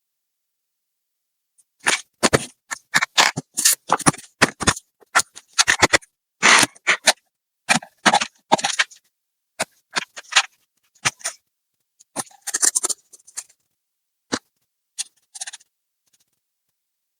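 A quick string of short clicks and scrapes from tools and hard plastic laptop parts being worked on during disassembly. It starts about two seconds in and thins out to a few isolated clicks near the end.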